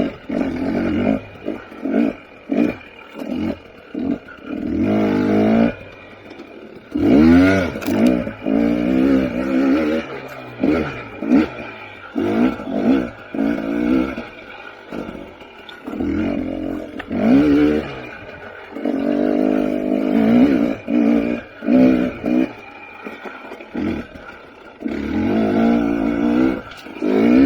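KTM 300 XC TPI two-stroke dirt bike engine revving up and down. The throttle is snapped open and shut in quick bursts, with a few longer pulls where the pitch climbs.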